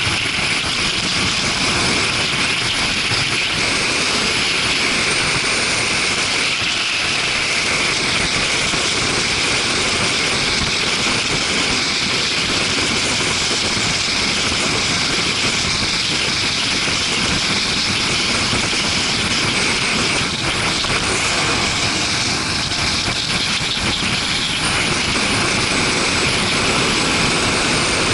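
Steady wind rush on an action camera while riding a Suzuki GW250 Inazuma, a parallel-twin motorcycle, at speed, with the engine running beneath the wind noise.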